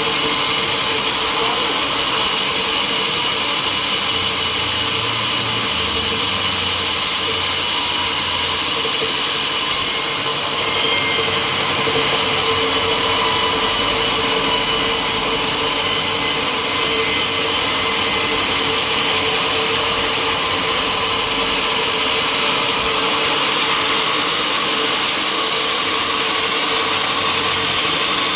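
Sawmill saw running steadily through wood, a continuous hum with a high hiss and whine over it.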